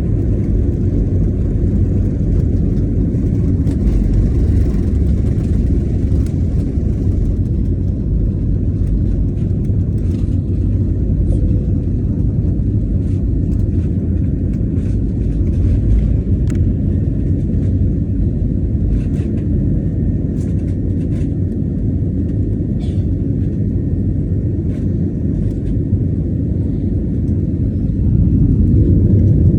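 Steady low rumble of a jet airliner's engines and airflow heard from inside the cabin during takeoff, growing a little louder near the end.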